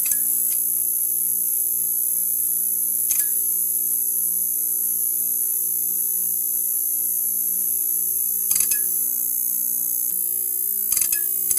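Neon sign buzzing with a steady electrical hum and a high hiss, broken four times by short clusters of crackling clicks.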